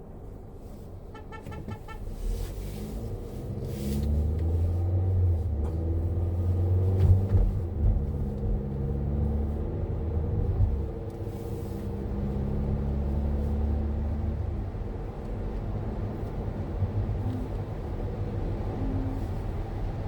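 Car engine and road rumble heard while driving, louder from a couple of seconds in and through the middle as the car picks up speed.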